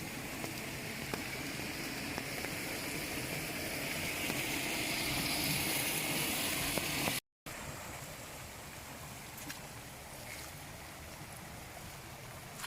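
Steady rain falling, with water running and scattered raindrop ticks. The sound swells slightly, cuts out completely for a moment about seven seconds in, then continues a little quieter.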